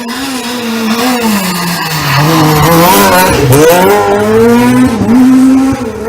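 Rally car passing close at speed: the engine note falls as it slows, then climbs in several quick rising steps through the gears as it accelerates hard, at its loudest as it goes by.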